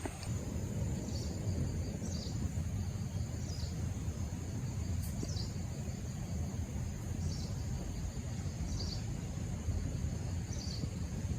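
Rainforest ambience: a steady high insect drone and short high chirps about once a second, over a low rumble.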